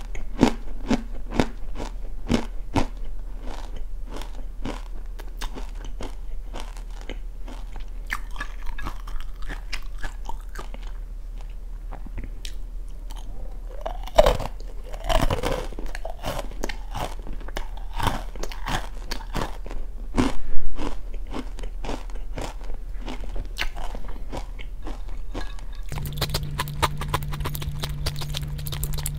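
Close-up crunching and chewing of oranda, a crisp Korean snack of puffed grain pellets stuck together with hardened syrup, with many small crunches in quick succession. A steady low hum comes in near the end.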